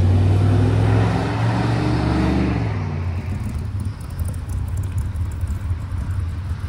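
A car engine running close by, with a deep pitched sound that is loudest for the first two to three seconds and then drops to a lower, rougher rumble.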